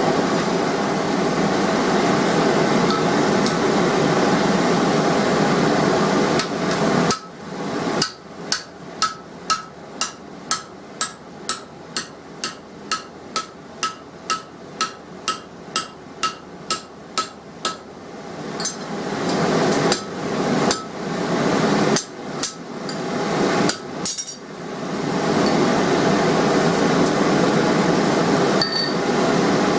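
Hand hammer striking steel on an anvil: a regular run of ringing blows, about two a second for some ten seconds, then a few scattered blows. A steady rushing noise fills the stretches before and after the hammering.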